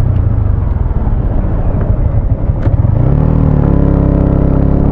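Motorcycle engine running under way with rushing noise over the helmet camera; about three seconds in the engine note comes through clearly, rising briefly and then holding steady.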